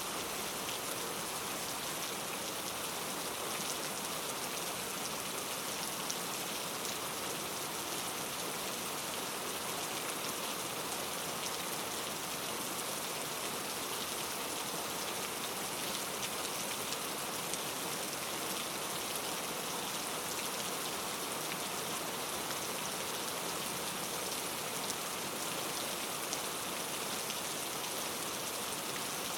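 Steady rainfall, with scattered drops ticking on a surface.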